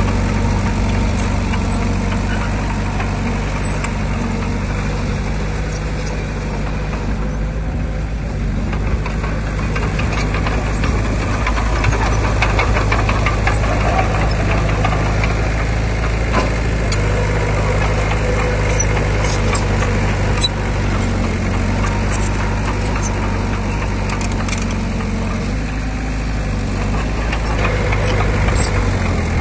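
Heavy diesel earthmoving machinery running steadily, with a stretch of clattering and knocks in the middle.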